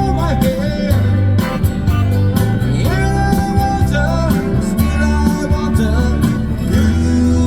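Country-rock music led by guitar, with a steady, loud bass line underneath and a bending melody line on top.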